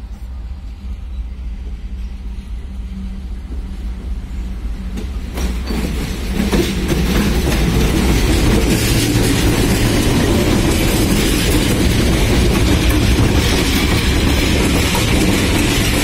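Diesel locomotives approaching with a low engine rumble that grows, then passing close by from about five seconds in: louder engine noise together with the steel wheels running and clacking over the rails.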